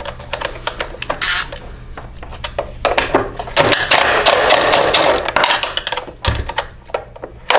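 Metal hand tools at work on the mower: rapid clicking of a ratchet wrench and clinking of metal sockets and tools, with a longer dense rattle of clatter about three seconds in.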